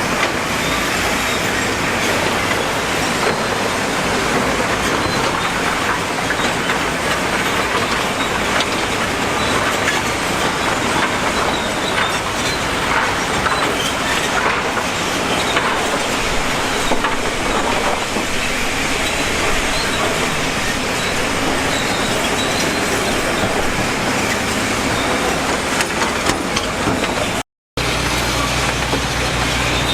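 Heavy construction machinery running, with a steady metallic clatter and some squealing. Near the end the sound cuts out for a moment and comes back as a steadier low engine hum.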